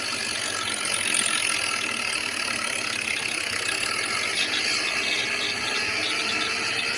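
Tractor running steadily, a dense mechanical clatter with a whine.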